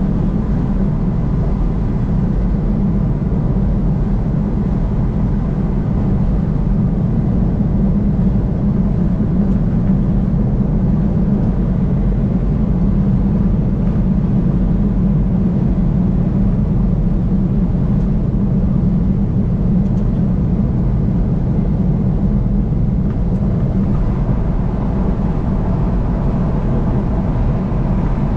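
Steady road and engine noise of a car driving on a highway, low-pitched and unchanging.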